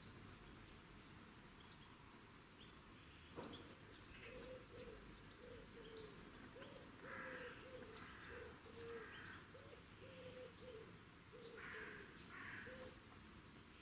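Faint bird calls: a long run of short low notes, about two a second, starting about four seconds in, with thin high chirps over them. A single click comes just before the calls begin.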